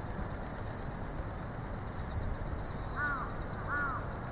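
A bird gives two short cawing calls, about three seconds in and again just under a second later. Under them run a steady hiss and a fast-pulsing high buzz.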